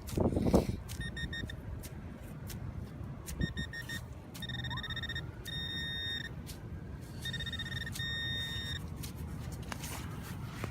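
Metal detector beeping on a buried target: a few quick short beeps, then longer steady tones that come and go as the coil passes over it. Low wind rumble on the microphone throughout, with a thump right at the start.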